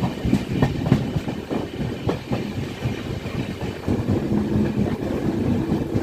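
Passenger train of LHB coaches running at speed, heard from aboard: a steady rumble of wheels on the rails with irregular clicks from rail joints. A steady low hum joins about two-thirds of the way in.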